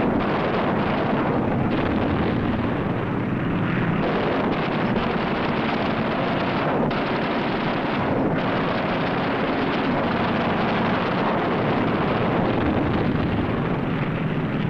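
A dense, steady din of aircraft engines and gunfire, the sound track of a WWII air battle, with a few sharp cracks standing out.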